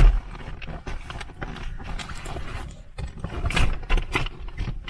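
Luggage being shifted around inside a car: a heavy thump at the start, then rustling and scraping, and a cluster of knocks and bumps about three and a half seconds in.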